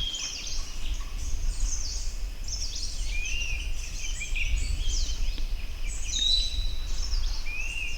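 Several forest birds calling and singing over each other: quick high chirps and downward sweeps, a short rising-then-level whistle heard twice, and a higher level whistle. A steady low rumble runs underneath.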